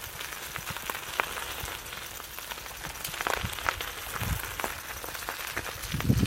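Light rustling with scattered small crackles and a few soft low thumps: movement through wet grass and fallen leaves.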